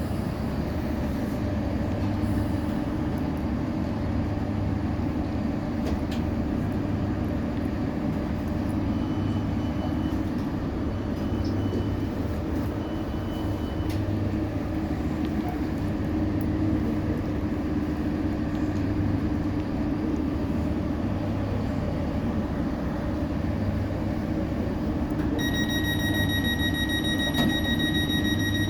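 Passenger train running, heard from inside the carriage: a steady rumble and hum with no change in pace. A faint string of short beeps sounds in the middle, and near the end a high steady whine-like tone comes on and holds.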